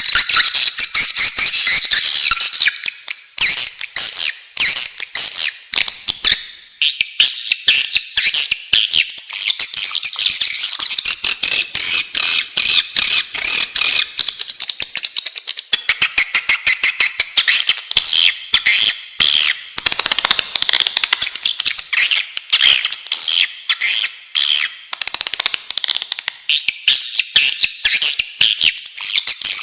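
Swiftlet calls played as a lure: a dense, continuous stream of rapid high-pitched twittering chirps and clicks from many birds, many per second, with a few brief dips.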